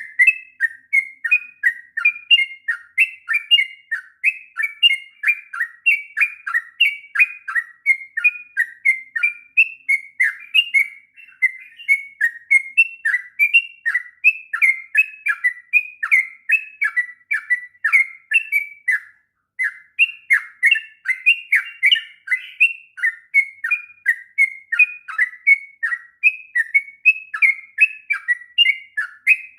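Yellow-vented bulbul (trucukan) singing a long, unbroken run of quick chirping phrases, with one short pause about two-thirds of the way through.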